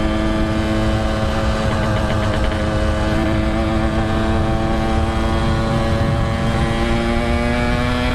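Yamaha RX-King's 135 cc single-cylinder two-stroke engine running at a steady cruise with no air filter fitted. Its pitch creeps slowly upward as the bike gently gains speed, over low wind rumble on the microphone.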